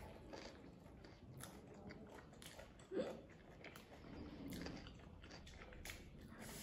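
Faint chewing and biting of food, with many small clicking mouth sounds, and one brief vocal sound about three seconds in.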